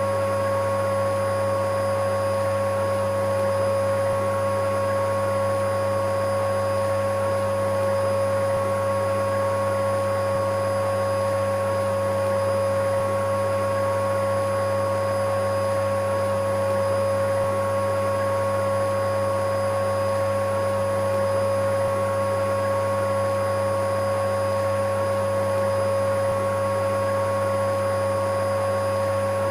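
Electric vacuum cleaner running steadily: an unchanging motor drone with a constant whine that never varies in pitch or loudness.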